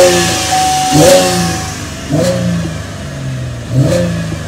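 Chevrolet Camaro engine revved in short blips with the car in Park, about four times, the tachometer swinging to about 3,000 rpm. A steady high tone sounds along with the first blips and stops under two seconds in.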